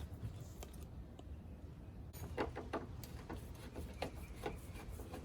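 Faint, irregular plastic clicks and taps as the old corner lamp housing is worked loose from the car, starting about two and a half seconds in.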